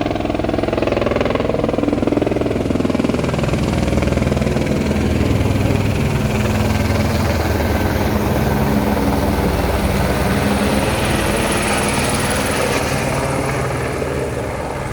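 Helicopter flying close by, its rotor and turbine making a loud, steady drone that fades slightly near the end.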